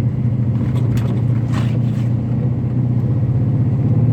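Pickup truck driving through snow in four-wheel drive, heard from inside the cab: a steady low drone of engine and tyres.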